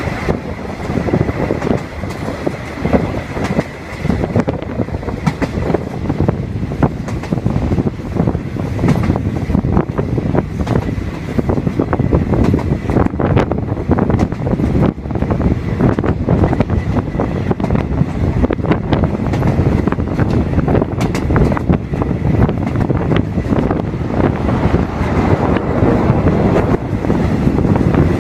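State Railway of Thailand passenger train 169 running downhill, heard from an open carriage window: a steady rumble of wheels on the rails, with a stream of clicks and clacks over rail joints.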